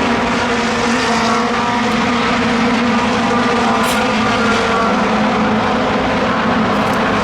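A steady engine drone: one constant low-pitched hum with its overtones, holding an even pitch and level throughout.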